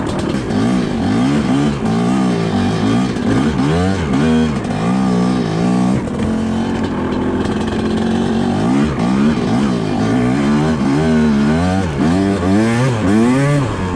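TM Racing MX250 250cc two-stroke dirt bike engine being ridden, revving up and falling back again and again with the throttle.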